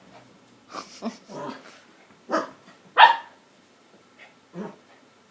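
A dog barking in a series of short barks, the loudest about three seconds in.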